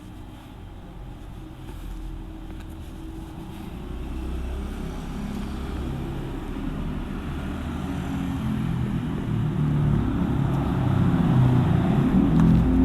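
Motorcycle engine running and growing steadily louder as it comes closer or picks up revs.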